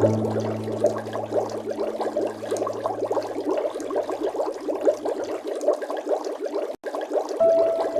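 Water bubbling and gurgling in a dense stream of small pops, with a low sustained music note underneath that fades out about five seconds in. A split-second break in the sound comes about seven seconds in.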